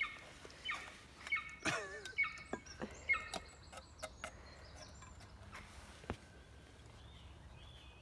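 Birds calling: a quick series of short, harsh calls repeated over the first three seconds, thinning out, with a few sharp clicks in between and faint chirps near the end.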